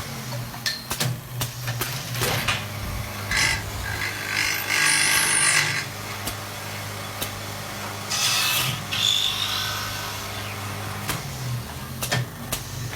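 Automatic wood lathe running with a steady motor hum while its cutter shaves a wooden workpiece. The shaving comes in several bursts of rasping cutting noise, the longest about five seconds in, with scattered clicks between.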